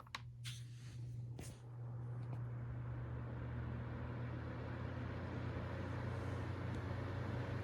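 A few clicks, then a 9-inch Massey box fan running on its low setting: a steady motor hum under rushing air that builds over the first two seconds as the blades spin up, then holds.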